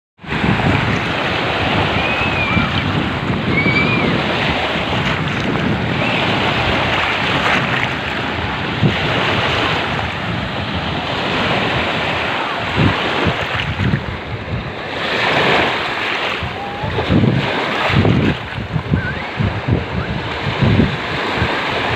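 Sea surf breaking and washing on the shore in a continuous rush, with wind buffeting the microphone in gusts, more so in the second half.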